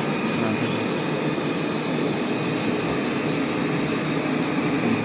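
Robot vacuum cleaners running: a steady whirring motor hum with a thin, high, constant whine over it.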